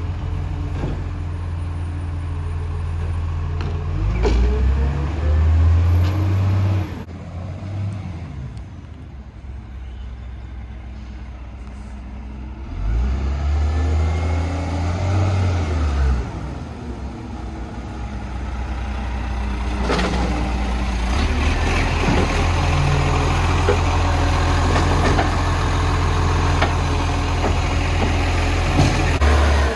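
Garbage truck's diesel engine running, revving up and back down twice for a few seconds each, then holding a steadier, louder note, with a few short sharp hisses or clanks.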